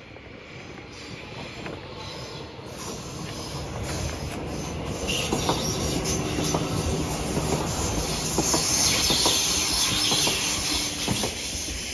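A red SZU Uetliberg Railway electric train passes close by, growing louder over the first several seconds. Its steel wheels hiss on the rails, and clicks sound as the wheels cross rail joints.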